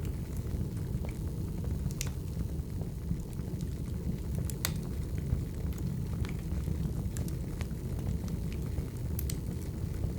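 Wood fire crackling: a steady low rumble of burning logs with scattered sharp pops and snaps, the loudest about two seconds in and just under halfway through.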